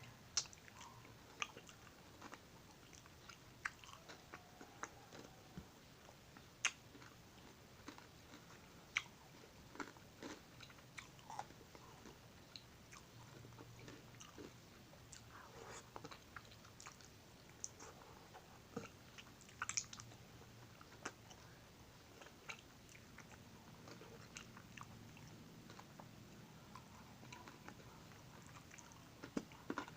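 Biting and chewing an ice cream bar on a stick: quiet crunches and sharp clicks at irregular intervals, a few every couple of seconds.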